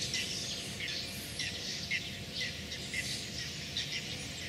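Songbirds chirping and singing: many short, high calls, one after another and overlapping, over a faint steady background noise.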